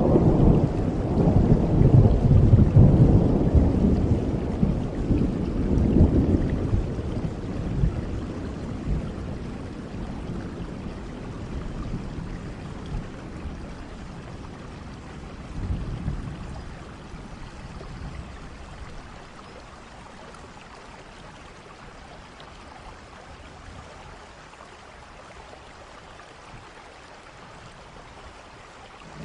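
Steady rain with a long roll of thunder in the first several seconds, rumbling twice and then fading away, leaving only the rain hiss.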